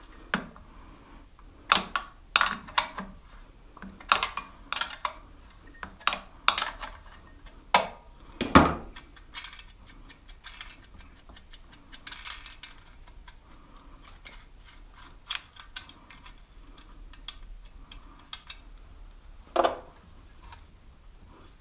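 Hand tools clinking and knocking on metal as the engine mounting bolts of a monkey bike are undone: a string of irregular sharp clicks and clanks, the loudest about eight and a half seconds in.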